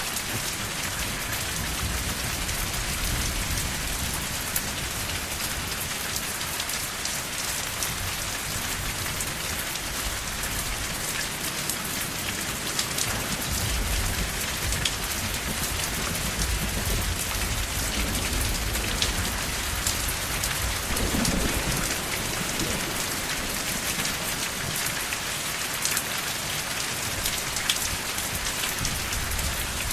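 Steady rain falling, with many sharp ticks of individual drops striking close by. A low rumble swells through the middle and fades again.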